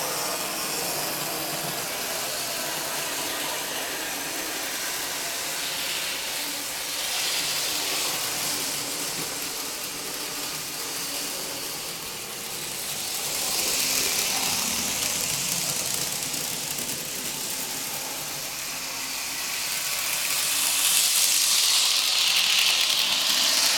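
N scale model train running around its track: a steady whirring hiss of the small motor and wheels on the rails, growing louder each time it passes close by, at about 7, 14 and 21 seconds in, the last pass the loudest.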